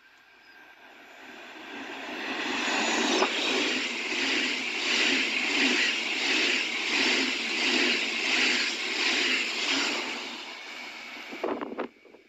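A double-deck passenger train passing through the station at speed without stopping. Its sound builds over about three seconds, then holds loud with an even rhythmic pulsing as the wheels of each coach go by. It fades near the end with a few sharp clacks.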